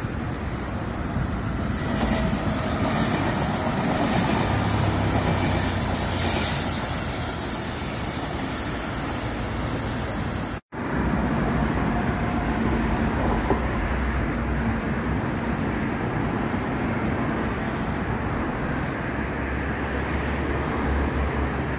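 Electric passenger train running slowly on the tracks: a steady rumble of wheels with a low traction hum. The sound drops out suddenly for a moment about halfway through, then the rumble and hum carry on.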